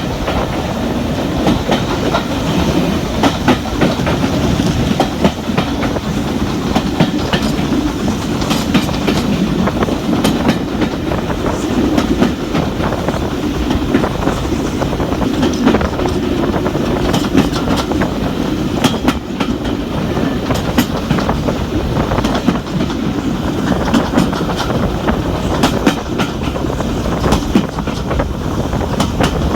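Steam-hauled passenger train coaches running along the line: a steady rumble with the wheels clicking irregularly over rail joints.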